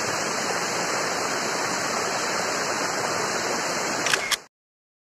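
Rushing water of a jungle river or waterfall, a steady hiss that cuts off abruptly a little over four seconds in, with a couple of clicks just before it stops.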